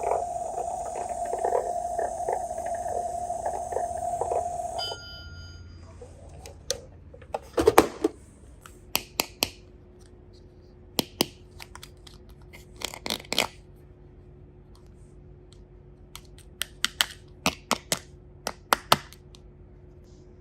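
Toy microwave's electronic running sound, a steady hum with regular pulses, which stops about five seconds in with a short electronic beep. After that come scattered plastic clicks and taps in small clusters.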